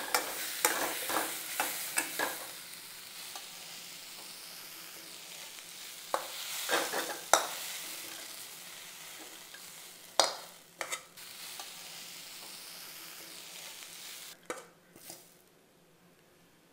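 Onions, tomatoes, curry leaves and whole spices sizzling in oil in a kadai, with a spatula scraping and knocking against the pan as the mix is stirred and scooped; the sautéed masala base is nearly done. The sizzle dies away near the end.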